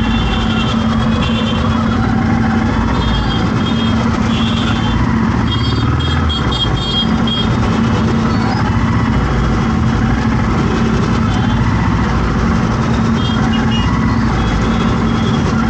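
Dense road traffic with engines running steadily and short, high-pitched beeps sounding on and off.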